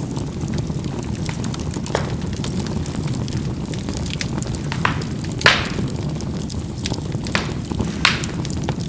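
Charcoal burning in a fireplace: a steady low rumble of the fire, broken by about five sharp crackling pops from the embers, the loudest a little past halfway.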